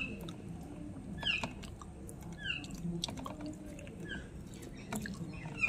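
A bird chirping: short falling chirps repeated about every second and a half. Under them are soft clicks and squelches of fingers mixing rice and dal on a steel plate.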